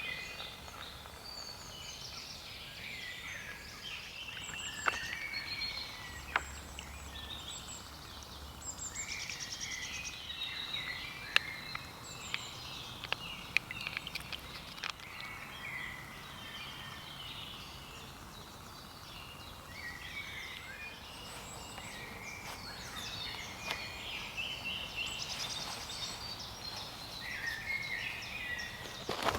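Woodland dawn chorus: several songbirds singing and calling at once, overlapping phrases throughout, with a few sharp clicks in the middle.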